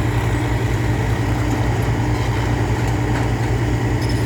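Diesel engine of a heavy construction machine running steadily at an even, low-pitched idle.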